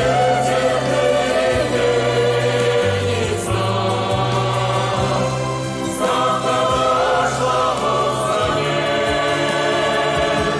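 Music: a choir singing wordless sustained notes over a steady bass line.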